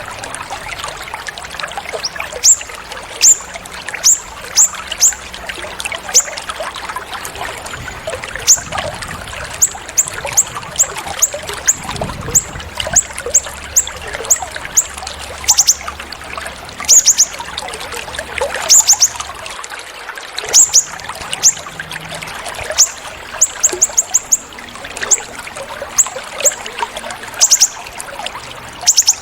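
Trickling, pouring water with a small songbird's sharp, very high chirps over it, often in quick runs of two to four, repeated throughout.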